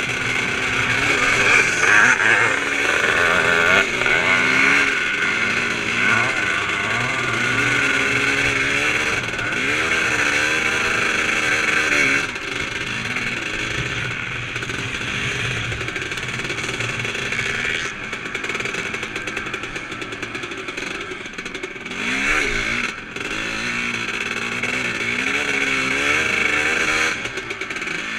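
Onboard sound of a 350-class vintage motocross bike racing, its engine note rising and falling again and again as the rider opens and shuts the throttle, over a steady rushing noise.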